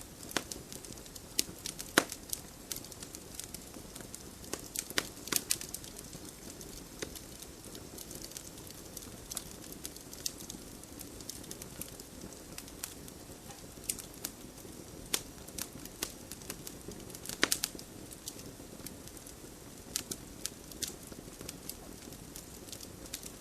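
Wood campfire burning: irregular crackles and sharp pops, a few much louder than the rest, over a steady low hiss.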